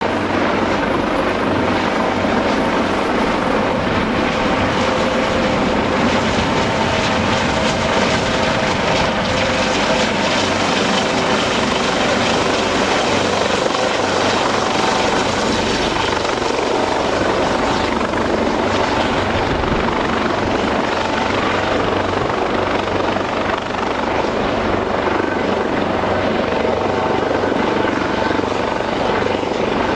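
Eurocopter AS365 Dauphin 2 helicopter on approach: its twin turbines, main rotor and Fenestron tail rotor making a loud, steady noise with a few held tones in it.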